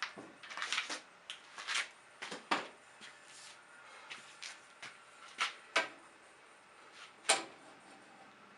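Irregular knocks and clunks, about a dozen, from objects being handled, with the sharpest knock about seven seconds in.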